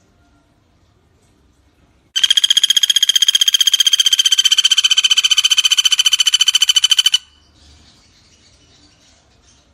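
Common flameback woodpecker (pelatuk bawang) giving one long, loud rattling call of rapid, evenly spaced notes, about eleven a second. The call starts about two seconds in, lasts about five seconds and cuts off suddenly.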